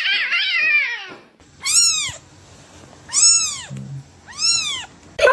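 A cat meowing: a fast run of short, high meows, then, after a break, three separate drawn-out meows that rise and fall in pitch, evenly spaced.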